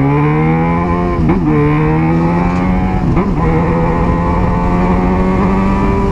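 Yamaha XJ6 inline-four engine through a Jeskap 4-2-1 aftermarket exhaust, accelerating with quick upshifts about a second in and about three seconds in, then holding a steady drone.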